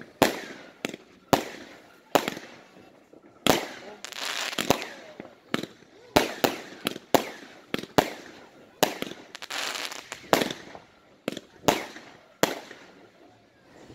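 Fireworks going off: an irregular run of sharp bangs, one or two a second, from bursting shells and firecrackers, with stretches of crackling between them.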